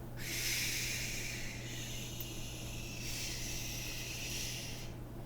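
A person shushing, a long drawn-out "shhh" as if soothing a baby.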